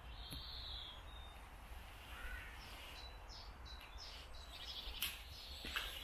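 Birds chirping: a short arched whistle near the start, then a quick run of short high chirps in the middle, over a low steady rumble.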